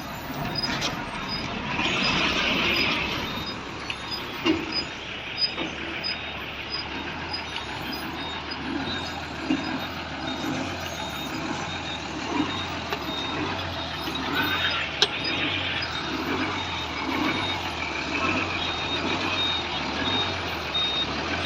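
Heavy diesel vehicle engine running with a reversing beeper sounding about twice a second, and two bursts of air hiss, about two seconds in and again about fifteen seconds in.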